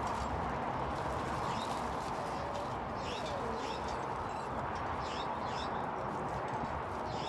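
Short high chirps repeating irregularly, about one or two a second, typical of a small bird calling, over a steady even hiss.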